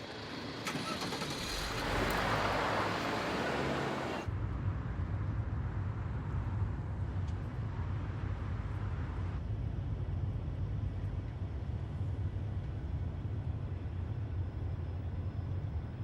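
Road traffic noise rising for about four seconds and cutting off suddenly, then a steady low drone of a car engine and road noise.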